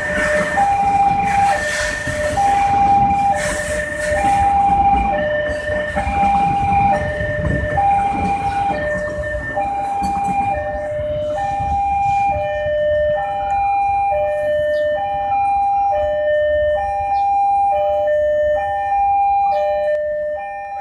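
Container freight wagons rumbling and clattering past on the rails, loud at first and fading as the end of the train draws away in the second half. Over it an electronic two-tone warning alarm alternates between a high and a low tone, each about half a second long.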